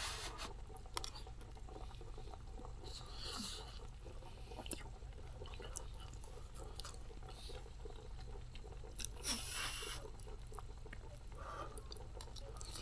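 Wood campfire crackling softly, with scattered sharp pops and a couple of brief hissy rushes.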